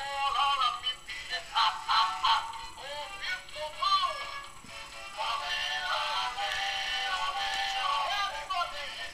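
A high voice singing a tune, its pitch sliding up and down between notes.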